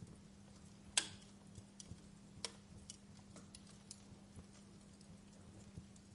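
Campfire crackling: irregular sharp pops and snaps of burning wood, the loudest about a second in and another about two and a half seconds in, with smaller ticks between.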